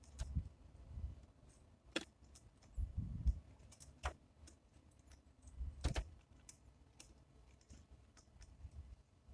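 Titmice at a feeder, pecking and landing: irregular sharp taps and clicks with a few dull low thumps, the loudest clicks about 2, 4 and 6 seconds in.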